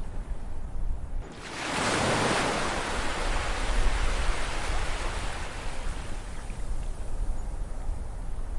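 Ocean wave breaking: about a second in, a rushing hiss of surf swells quickly, then slowly washes out over several seconds, over a steady low rumble of the sea.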